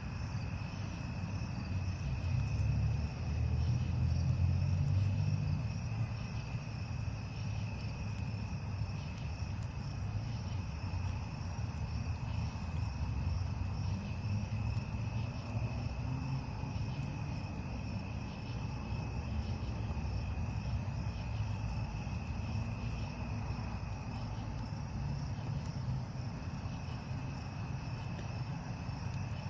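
Crickets chirping in a steady high trill, over a low rumble that swells for a few seconds near the start.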